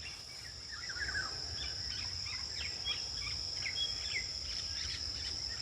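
Many short bird chirps and calls scattered throughout, over a steady high insect drone such as crickets or cicadas.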